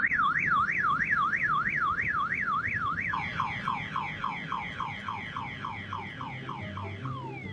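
Electronic siren sound effect: a fast up-and-down warble for about three seconds, then a quick run of falling chirps, about four a second, slowly fading.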